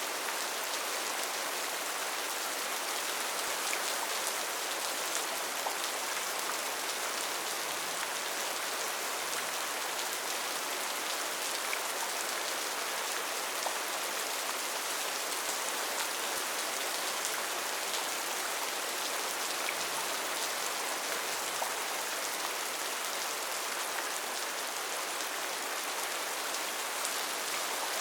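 Steady rain falling on a rainforest canopy, an even hiss of countless drops with faint scattered patters and no letup.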